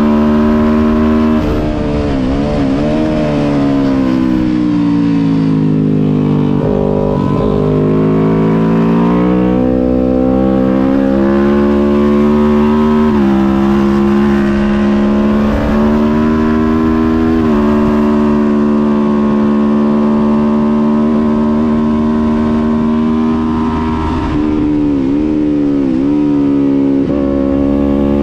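Kawasaki Ninja 400's parallel-twin engine at race pace, heard onboard over wind noise. Revs fall a few seconds in as the bike slows for a corner, climb again with two upshifts midway, hold high, then rise and fall quickly several times near the end as it shifts down.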